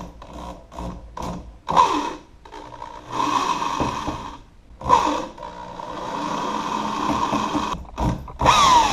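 Drill with a number 3 Phillips bit backing out the tight door-latch screws, its motor whining in several short bursts with pauses between them. Near the end the pitch falls as the motor spins down.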